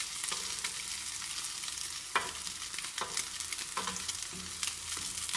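Egg-dipped bread slices sizzling in butter in a hot pan, with a knife and fork clicking and scraping against the pan as the slices are moved. One sharper clack comes about two seconds in.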